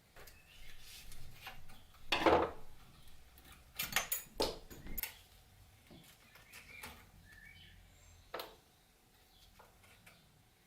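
Small metal parts of an old padlock being handled on a workbench: scattered clicks and knocks, with a louder knock about two seconds in and a quick run of clicks around four to five seconds.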